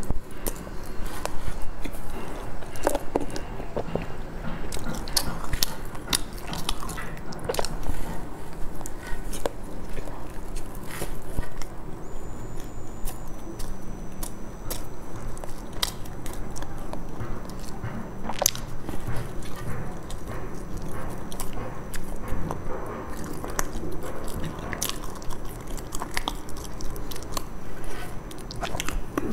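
Close-miked chewing and biting of a soft bun with a dark filling: mouth sounds with many small clicks and smacks throughout.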